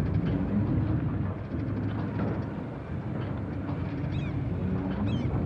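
A vehicle engine running with a steady low rumble. A bird chirps briefly twice near the end.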